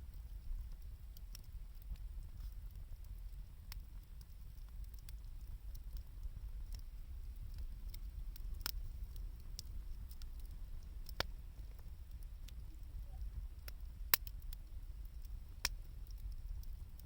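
Wood campfire burning, with sparse sharp crackles and pops over a steady low rumble; the loudest pop comes about 14 seconds in.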